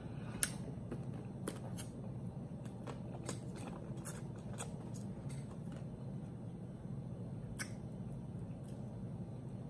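Close-miked chewing and lip smacking from someone eating with her mouth closed: irregular short, sharp, wet clicks, more of them in the first half, over a low steady background hum.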